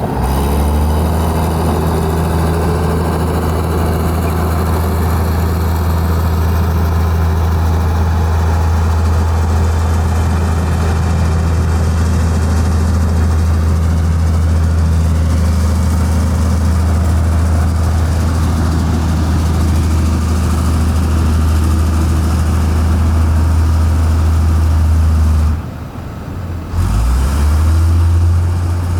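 Heavy diesel engine of construction machinery running steadily, with revs rising at the start. Near the end the engine sound drops out for about a second, then picks up again with revs climbing.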